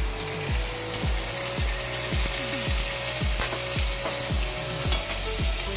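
A wagyu beef patty sizzling in hot oil in a frying pan, under background music with a low thudding beat about twice a second.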